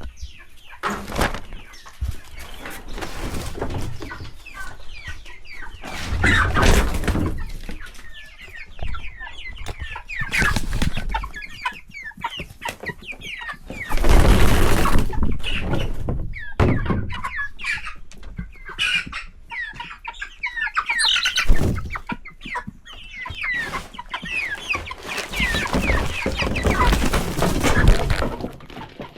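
A flock of chickens clucking and chirping, many birds at once, as they are given feed. Loud bursts of rustling noise come and go, the biggest about halfway through.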